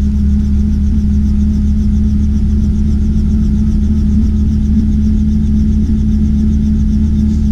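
Robinson R44 Clipper II helicopter's six-cylinder Lycoming piston engine and rotors running steadily, heard from inside the cabin: a constant low drone with a steady hum and a faint even flutter.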